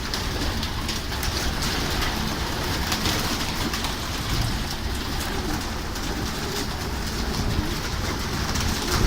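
Domestic pigeons cooing in a loft, over a steady rumbling background noise with scattered clicks.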